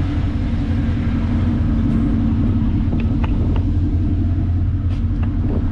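Pickup truck engine running with a steady low rumble, with a few light clicks.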